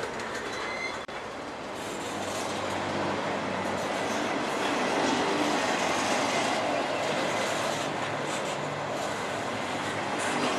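Freight train moving through the station, a steady rumble of wheels on rail with a diesel locomotive running underneath. It grows louder after about two seconds.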